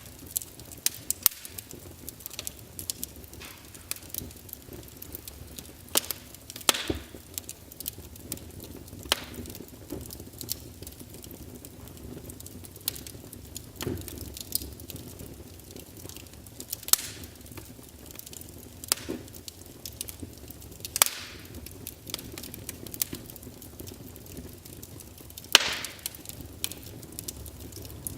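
Wood fire in a fireplace crackling: a soft steady hiss of flames with irregular sharp pops and snaps from the burning logs, several louder cracks scattered through.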